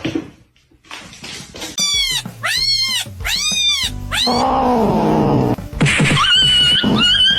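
A cat meowing: four quick high meows in a row about two seconds in, followed by a longer, lower drawn-out call.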